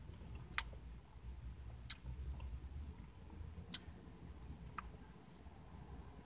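A person chewing a mouthful of frosted cupcake, with a handful of sharp, wet mouth clicks spaced a second or so apart and a bite near the end, over a low steady rumble.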